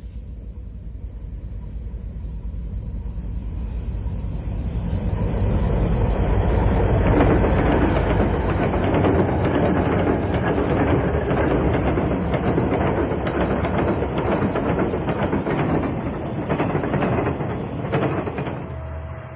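Southern Pacific diesel freight locomotives working under load up the last of a grade, their deep rumble building as they approach and staying loud as they pass, with the rapid clatter of wheels on the rails, then easing near the end.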